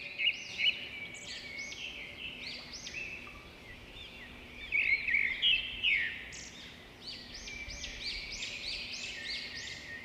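Birds chirping: many short, arching calls overlapping one another, with a faint steady hum underneath.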